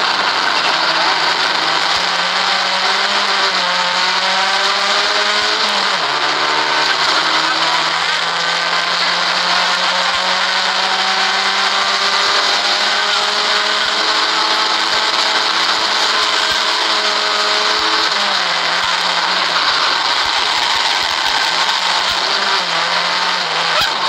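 A Vauxhall Corsa 1200 rally car's engine heard from inside the cabin, driven hard. Its note climbs and drops sharply about six seconds in at a gear change, then holds high revs until it falls away about eighteen seconds in and rises and falls after that. Steady road and wind noise runs under it.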